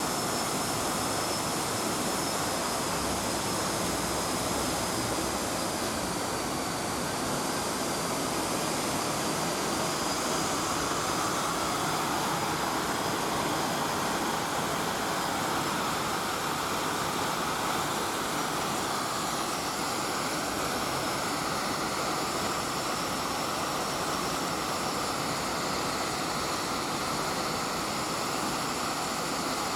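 Typhoon weather: a steady rushing noise of rain and wind that holds at one level throughout, with a faint thin high whine above it.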